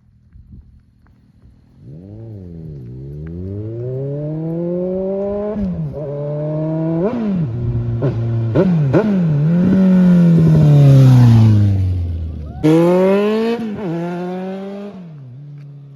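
Suzuki Bandit 1250's inline-four engine accelerating hard under full throttle, the pitch climbing and dropping at several quick gear changes as it grows louder. The pitch then falls away, and a short burst of revving about three-quarters of the way in dies down near the end.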